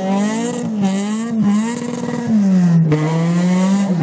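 Rally car engine running hard at high revs, its pitch wavering with two short breaks, about a second and a half in and near three seconds.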